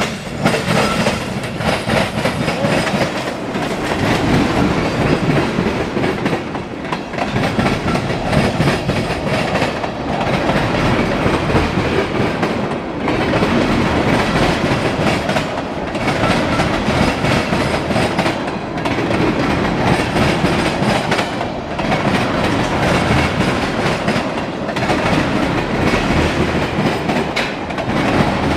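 Freight train cars rolling past close by, a steady loud rumble of wheels on rail with clacking, the level dipping briefly about every three seconds.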